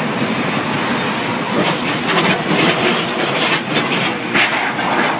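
Heavy vehicle moving with a steady rumble and irregular clattering.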